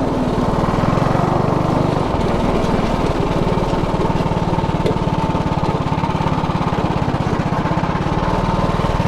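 Predator 212 Ghost single-cylinder four-stroke engine on a go-kart, running steadily at a near-constant pitch with a dense, rapid firing patter.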